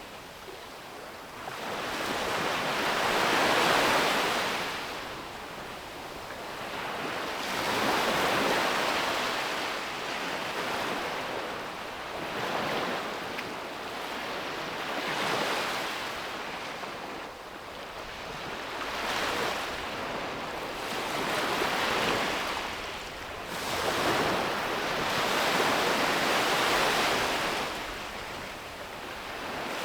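Sea waves breaking and washing up a beach, the surf swelling and fading in a slow rhythm about every four to five seconds.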